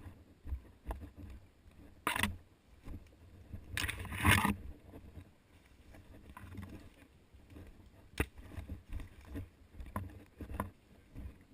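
Movement noise from a player on foot: uneven low thumps and rumble, with a brief rustling burst about two seconds in, a longer, louder one around four seconds, and a few sharp clicks later, the loudest about eight seconds in.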